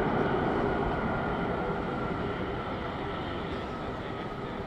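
Jet engines of a Boeing 787-8 airliner on its landing, a steady rumble with a high whine over it, slowly fading as the aircraft moves away.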